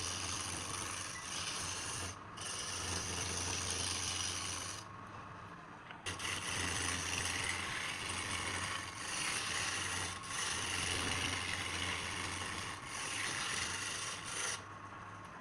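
Wood lathe running with a steady low hum while a hand tool rasps against the spinning wood, easing off for about a second about five seconds in.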